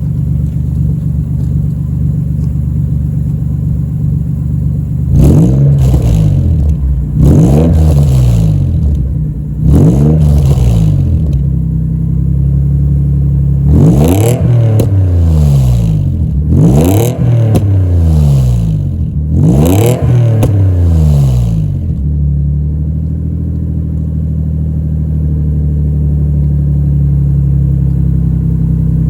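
Nissan 300ZX (Z32) 3.0-litre V6 exhaust through a Garage Dog House Final Flag aftermarket muffler: idling, then blipped six times, each rev rising quickly and falling back, before settling to idle again.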